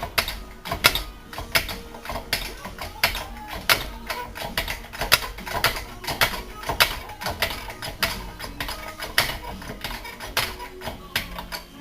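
Hand tools clicking and knocking on metal in quick, irregular strokes, several each second, as work goes on on the engine.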